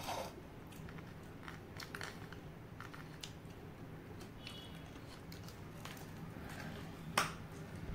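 A person biting and chewing crispy fried chicken close to the microphone: faint crunching and small mouth clicks, with one sharper crunch about seven seconds in. A steady low hum runs underneath.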